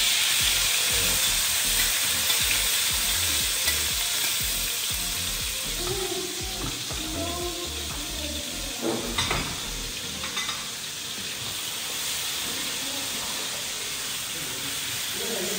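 Ground chili paste sizzling as it hits hot oil in a steel wok, starting suddenly and easing off slowly as it fries. A metal spatula stirs it, scraping and clinking against the wok a few times around the middle.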